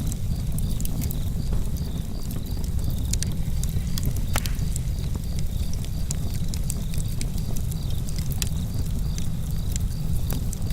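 Campfire crackling: frequent sharp pops and snaps of burning wood over a steady low rumble, with one louder snap about four and a half seconds in. A faint, regular high chirping runs in the background.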